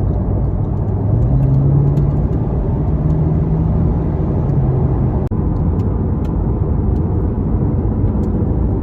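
Corvette C8 Z51's mid-mounted 6.2-litre LT2 V8 pulling while driving, with road noise, heard from inside the cabin. The engine note rises about a second in, holds, and eases off after about five seconds.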